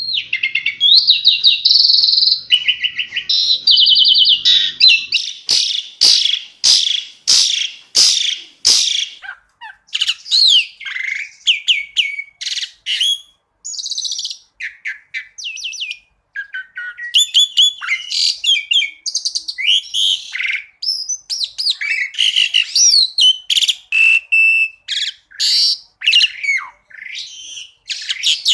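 Asian pied starling (jalak suren) singing a fast, varied song of whistles, trills and quick chattering phrases, with a run of sharp clicks about five to nine seconds in.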